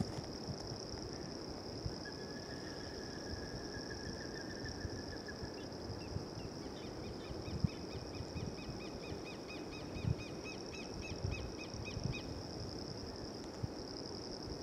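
Outdoor marsh sound: a steady high-pitched insect trill throughout. A bird gives a thin level trill a couple of seconds in, then a fast run of repeated short notes, about four a second, for about five seconds. Scattered low thumps run underneath.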